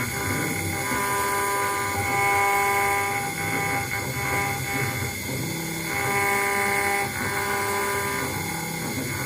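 CNC router engraving brass: the spindle running steadily while the stepper-driven axes whine, their tones stepping to new pitches every second or two as the cutter moves along its toolpath.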